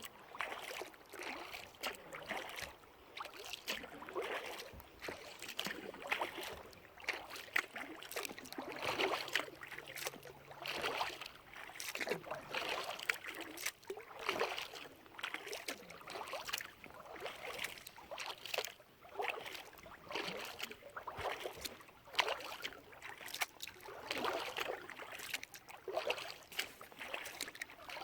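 Kayak paddle blades dipping into and pulling through lake water, a splashing swish every second or two with small drips and clicks between strokes.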